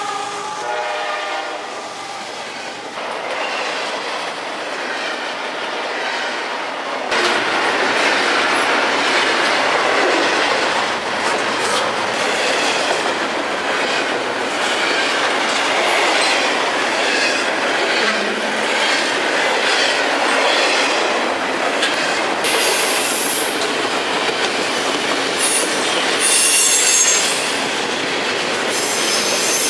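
CSX freight train. Its locomotive horn sounds at the start and fades out within about three seconds, then the train rolls by with rail noise and clickety-clack, suddenly louder from about seven seconds in. High wheel squeal comes near the end.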